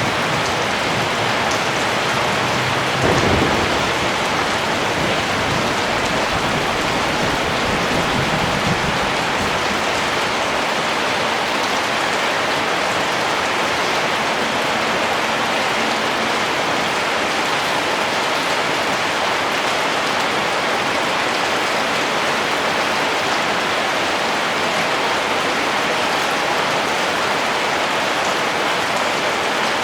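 Steady rain falling, an even hiss throughout. A brief low rumble comes about three seconds in and a fainter one around eight seconds.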